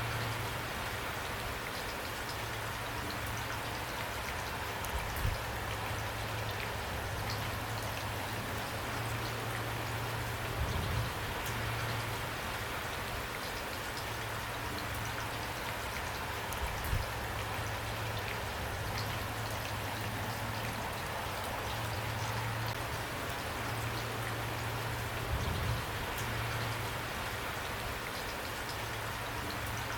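Steady rain falling, an even hiss of many drops, with a few brief, soft, low thumps every several seconds.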